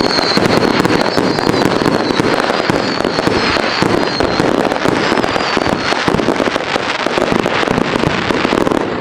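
Many fireworks going off in dense, continuous crackling and popping, with a high wavering whistle that fades out about six seconds in.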